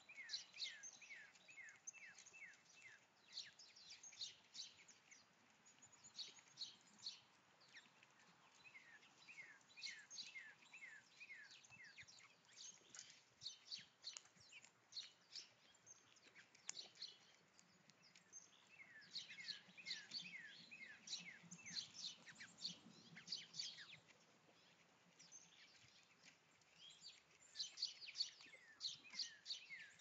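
Small songbirds chirping faintly in bouts of quick, short falling notes, with quieter pauses between the bouts.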